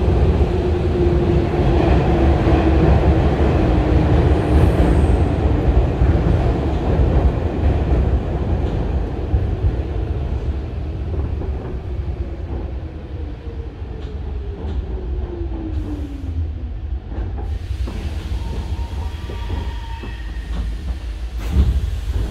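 Interior running noise of a Hanshin 5001-series resistance-control commuter car slowing into a station, with a motor whine that falls steadily in pitch as it brakes. The train comes to a stand about halfway through and the noise drops to a lower rumble. Near the end the passenger doors slide open with a sudden clunk.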